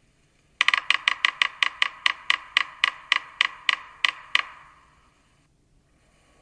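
Yellow-bellied sapsucker drumming on wood: a quick run of knocks that slows into more widely spaced, irregular taps, about eighteen in all, stopping a little over four seconds in.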